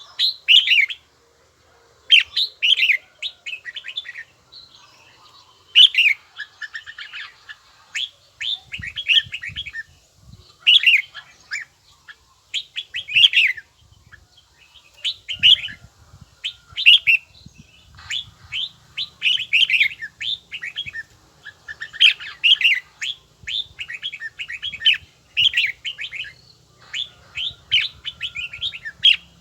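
Red-whiskered bulbul singing: short phrases of quick, clear chirping notes, repeated every second or two.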